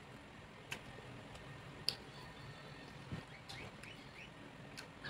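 Faint chewing of roast pork (lechon): scattered mouth smacks and small clicks, the sharpest about two seconds in.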